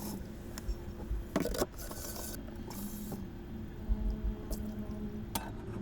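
Kitchen utensils and dishes handled while a meal is dished up: a few sharp clicks and scrapes and short spells of hiss over a steady low hum.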